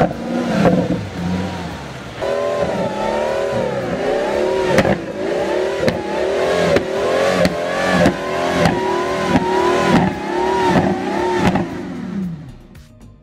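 Pagani Huayra's twin-turbo V12 being revved in a long run of quick blips, its pitch climbing and falling about every three-quarters of a second, with a sharp crack at each blip. The revving fades away near the end.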